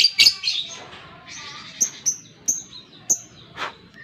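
Lovebird calling: a loud, harsh burst of high chatter at the start, then a string of short, sharp, very high chips, about one every half second.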